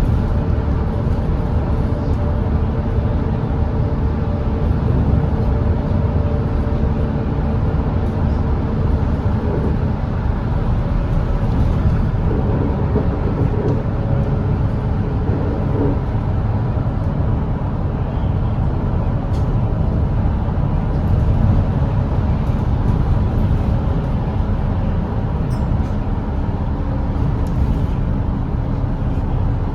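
Volvo B8RLE double-decker diesel bus running at highway speed: a steady low engine drone mixed with road noise.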